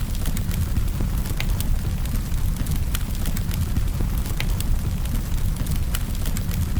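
Campfire burning, with scattered sharp pops and crackles of the wood, several a second, over a steady low rumble.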